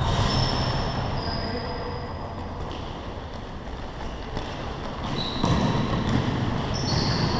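Basketball game on an indoor court: sneakers squeaking briefly on the floor several times over a low rumble, with a few soft knocks.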